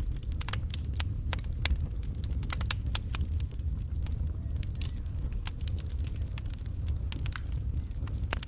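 Wood fire burning: a steady low rumble with frequent irregular sharp crackles and pops.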